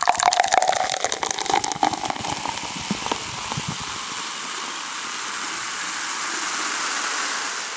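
Water running from a tap, splashy with drips at first, then settling into a steady rush that cuts off abruptly.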